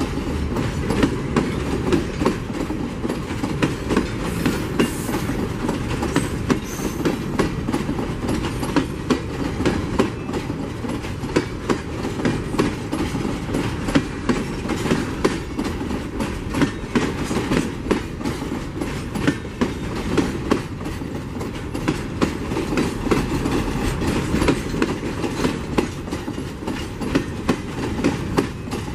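Freight train's hopper wagons rolling past at close range: a steady rumble of steel wheels on rail with a continuous run of clicks and knocks.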